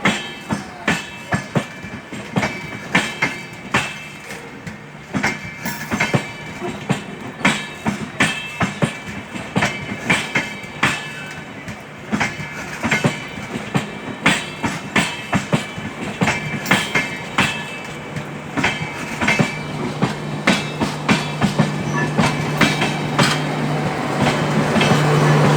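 Passenger train of LHB coaches rolling past, its wheels clicking over the rail joints in a steady rapid rhythm. A steady low hum comes in about three-quarters of the way through and grows louder near the end.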